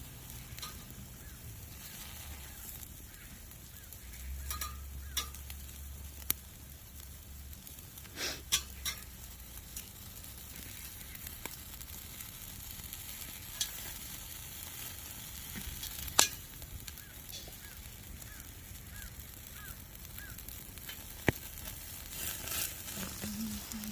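Lamb chops sizzling on a grill over an oak-wood fire, a steady hiss broken by irregular sharp pops as fat spatters into the flames.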